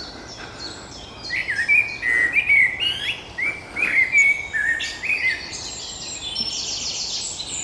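Several woodland birds singing at once in spring. A loud song of short, swooping repeated notes fills the middle, over high, rapid trills from other birds that grow busier near the end.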